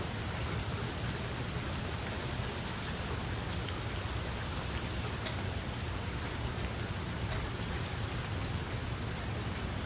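Steady rain falling: an even hiss with a low rumble underneath and a few separate drop ticks, the clearest about five seconds in.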